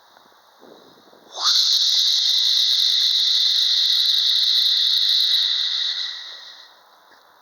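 A loud, high-pitched squealing hiss. It starts with a quick rising sweep about a second and a half in, holds steady for about four seconds, then fades away.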